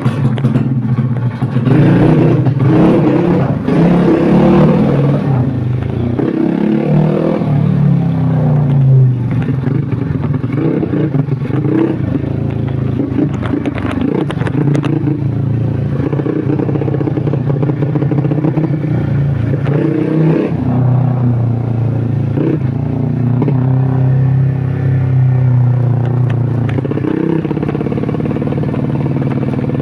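Modified 130cc Yamaha Jupiter Z underbone motorcycle engine, revving up and easing off repeatedly as it rides, with clattering throughout.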